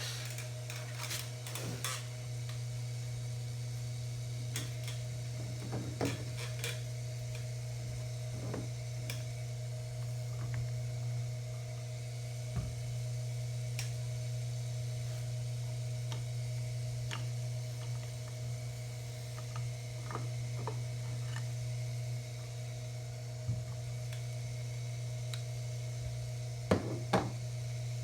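Baldor 353T dental lathe running steadily with a low hum, its buffing wheel spinning, with scattered light clicks and taps and two sharper clicks near the end.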